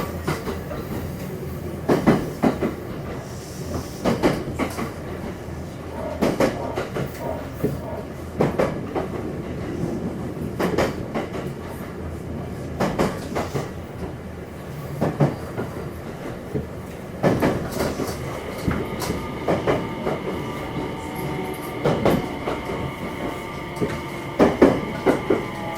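JR West 227 series electric multiple unit (Hitachi IGBT VVVF inverter) running noise heard inside motor car KuMoHa 227-7: wheels clacking over rail joints about every two seconds over a steady rumble. About two-thirds of the way in, a steady whine of several tones sets in as the train draws into the Itozaki terminus.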